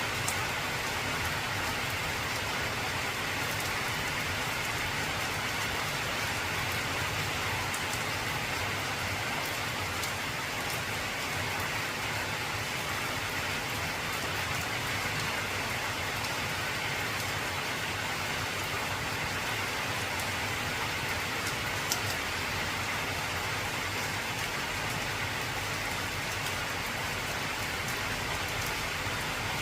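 Heavy rain falling steadily on an old corrugated tin roof, a dense even patter with one sharper click about two-thirds of the way through.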